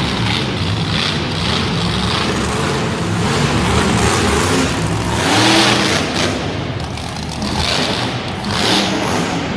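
Monster truck engine running loud and revving, swelling and falling back several times.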